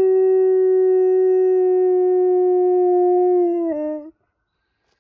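Dog howling: one long, steady note that dips slightly in pitch and breaks off about four seconds in.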